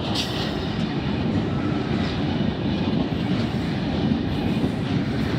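V-set double-deck electric intercity train passing a platform at close range, its wheels and running gear making a steady rumble.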